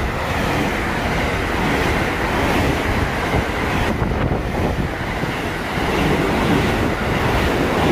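JR West Special Rapid electric train passing through the station at speed without stopping: a loud, steady rush of wheel-on-rail noise and air as the carriages stream past close alongside.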